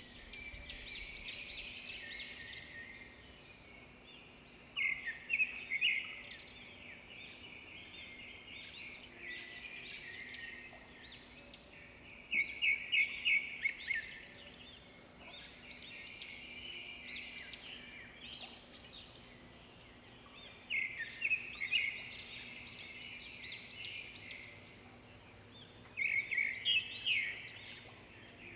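Birds chirping: bursts of rapid, repeated high chirps come every several seconds, with softer chirping in between.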